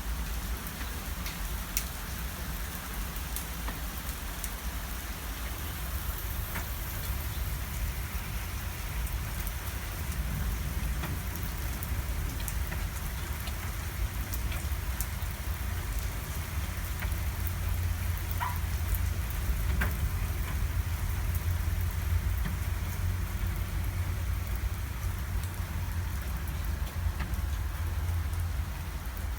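Heavy rain pouring down steadily, scattered drops ticking sharply over the hiss, with a deep low rumble underneath that grows a little louder about halfway through. The hail has passed and only hard rain is falling.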